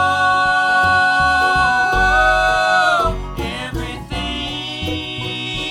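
Live bluegrass band playing a slow song: a sung note held for about three seconds over acoustic guitar and banjo, then the instruments carry on alone until the next line.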